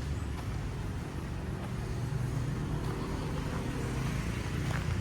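A motor vehicle's engine running close by with a low steady hum, growing a little louder about halfway through.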